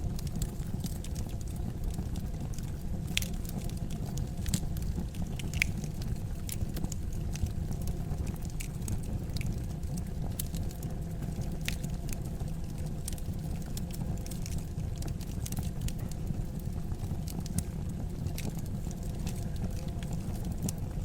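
Fire crackling in a fireplace: a steady low rumble of flames with scattered sharp crackles and pops.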